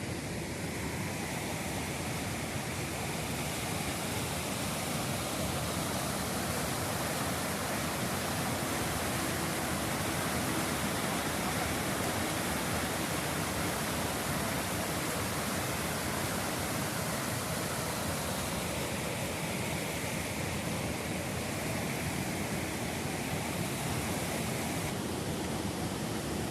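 Ahvenkoski waterfall, water rushing steadily over the rocky falls.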